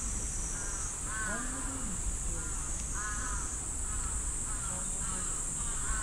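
A bird calling over and over in short harsh calls, roughly one or two a second, over a steady high buzz.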